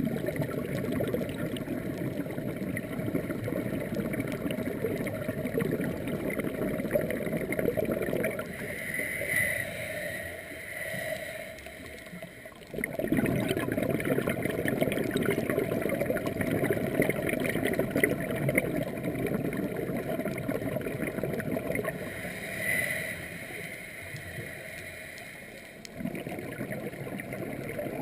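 Underwater bubbling and gurgling of scuba divers' exhaled air. The rushing comes in long surges with quieter lulls between them.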